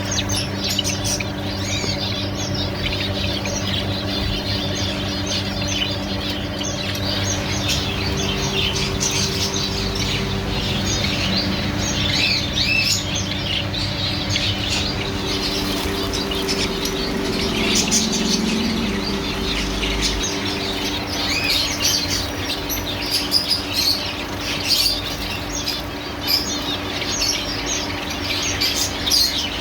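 Many small cage birds, finches and canaries, chirping and twittering together in a constant overlapping chatter, with a steady low hum underneath.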